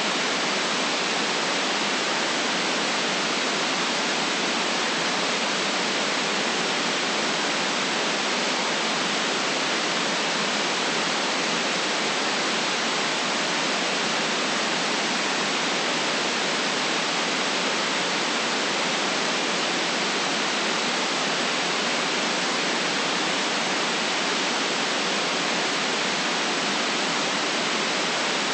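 Steady white noise: an even, unchanging hiss with no deep rumble and no individual sounds in it.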